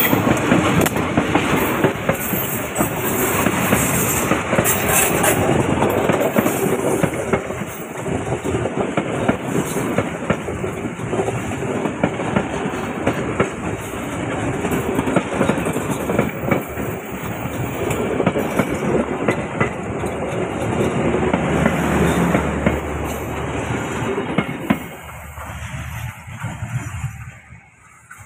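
A train passing close by, its wheels clattering and rumbling over the rails in a rapid run of clicks. The sound drops away over the last few seconds as the train moves off.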